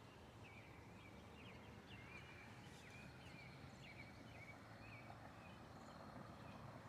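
Faint birds chirping, short hooked notes coming about two a second, over a quiet steady low background hum.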